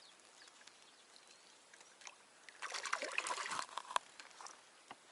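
Water splashing and sloshing for about a second, a little past the middle, as a hooked crucian carp thrashes at the surface while it is being brought in; faint clicks before it.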